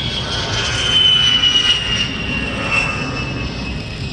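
A-10 Warthog's twin TF34 turbofan engines running, a loud high-pitched whine that slowly falls in pitch over a steady jet rumble.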